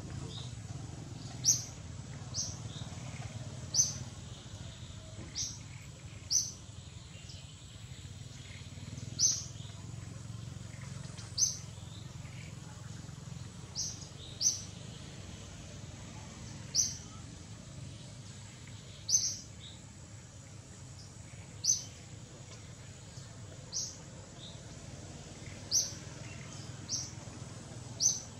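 A bird giving short, high chirps over and over, one every second or two, over a steady low background hum.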